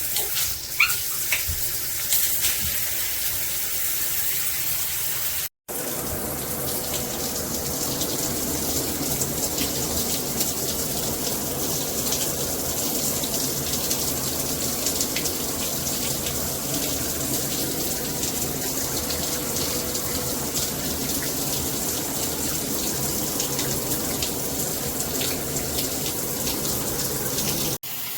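Water spraying steadily from a Cobbe 8-function shower head, cut off abruptly for a moment about five and a half seconds in and again near the end.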